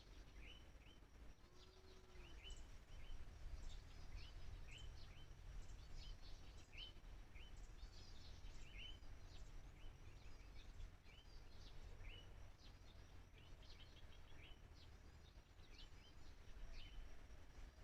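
Faint birdsong: many small birds giving short, repeated chirps and calls, over a low steady rumble.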